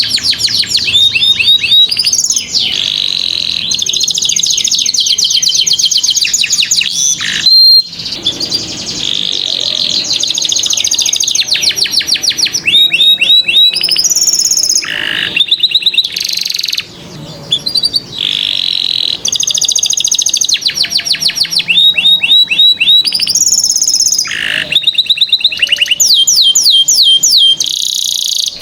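Domestic canary singing a long, continuous song of fast trills and rolls, each phrase a rapid run of repeated high notes, switching to a new phrase every second or two.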